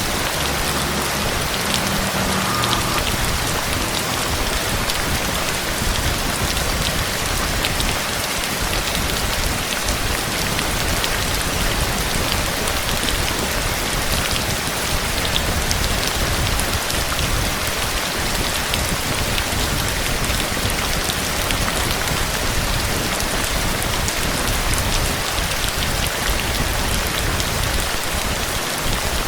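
Steady heavy rain falling and pattering on surfaces, a dense even hiss with many fine drop taps.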